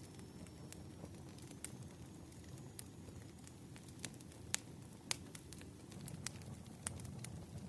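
Wood fire crackling: irregular sharp pops and snaps over a low steady rumble, with two louder snaps about halfway through.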